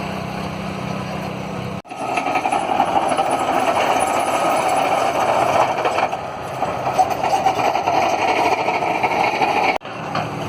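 Heavy demolition machine's diesel engine running steadily. About two seconds in, after an abrupt cut, a louder, rougher stretch of machine noise begins; it ends with another cut near the end.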